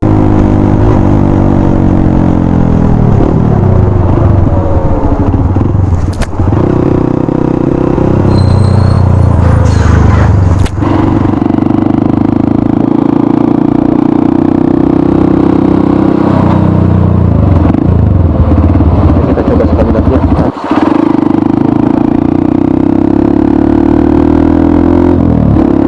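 Honda CRF 150L's single-cylinder engine running loud through an aftermarket Norifumi RV1 N4 exhaust while riding, pitch rising and falling as the throttle opens and closes. There are brief breaks in the sound about 6, 11 and 21 seconds in.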